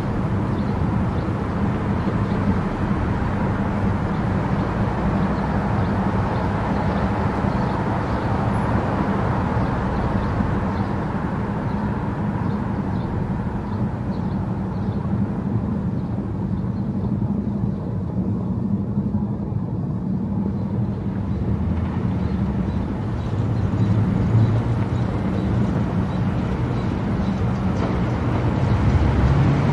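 Car driving at highway speed: steady engine hum and tyre noise. The high hiss thins for a few seconds past the middle and then returns.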